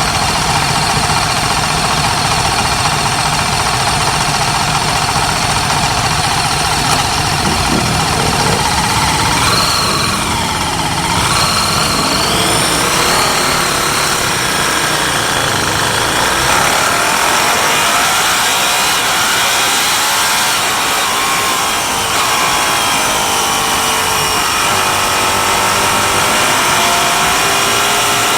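Vintage racing motorcycle engine running hard at high revs, its pitch dropping and rising through gear changes about ten to thirteen seconds in, then climbing again under acceleration near the end.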